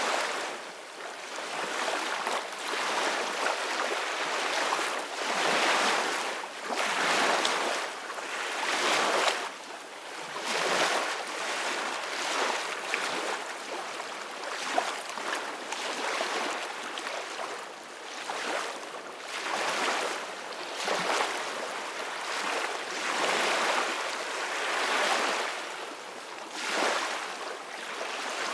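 Gentle ocean waves washing in: a steady hiss of surf that swells and eases every couple of seconds, with no deep booms.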